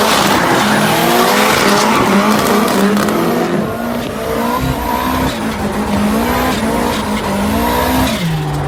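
Drift car engine revved up and down again and again while the tyres squeal and skid. Near the end the engine note drops and settles to a steady lower pitch.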